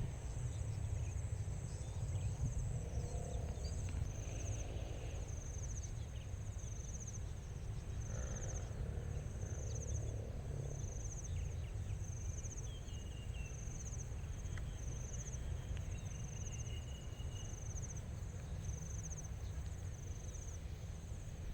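Evening insects, crickets or similar, calling in a grassland: a steady high trill with short chirps repeating about once a second, over a low rumble.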